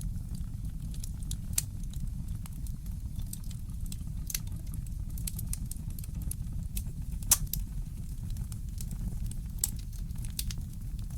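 Fireplace crackling: irregular sharp pops and snaps over a steady low rumble, with one louder pop about seven seconds in.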